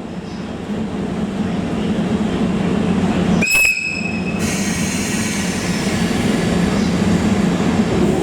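Train hauling new E235-1000 series cars rumbling in, growing steadily louder, with a single high whistle blast lasting about a second, some three and a half seconds in.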